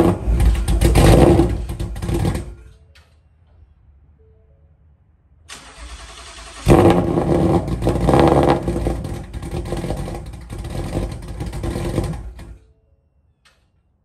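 A 2021 Ford Mustang's V8 cold-starting on E85 at the exhaust tips over several attempts. The engine runs briefly then dies after about two and a half seconds; after a pause it cranks again, fires with a loud bark and runs rough and uneven for about six seconds before cutting off suddenly near the end.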